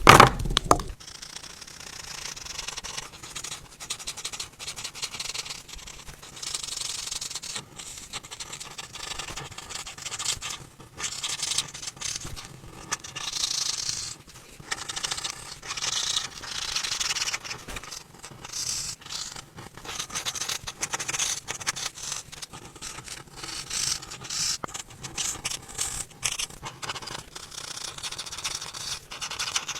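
A coloring tool scratching across coloring-book paper in short, uneven back-and-forth strokes. A brief thump at the very start.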